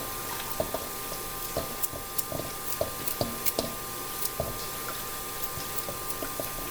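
Carrot pieces dropping into a pot of water: a string of irregular wet plops and small knocks, a few a second, over a faint steady hum.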